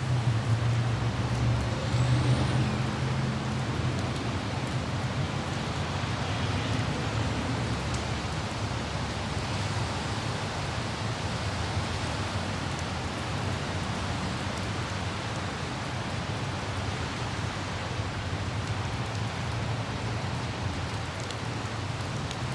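Light rain with city traffic: a steady low vehicle rumble under an even hiss of rain, a little louder in the first few seconds.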